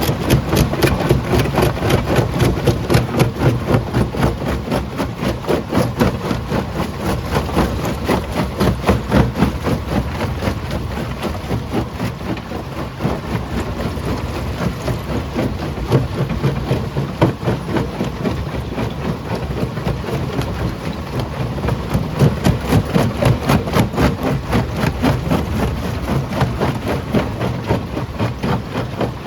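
Stone jaw crusher running: a rapid, even rhythm of knocks over a low machine rumble.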